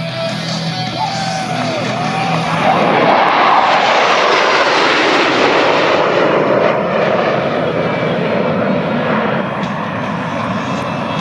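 Jet aircraft flying past. The rushing engine noise swells to its loudest about four seconds in, and its pitch falls as the jet goes by, then it slowly fades.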